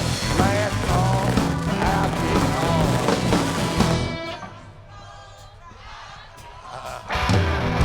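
Live blues-rock band music that drops away about four seconds in to a much quieter stretch, then comes back at full level near the end.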